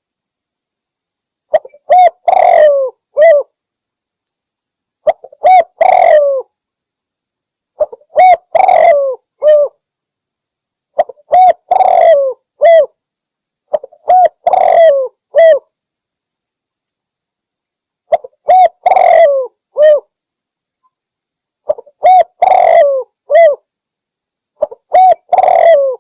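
Spotted dove (derkuku) cooing loudly and close up: about eight short phrases, one every three seconds or so, each of three coos (a short note, a longer one, then a clipped final note), with silence between phrases.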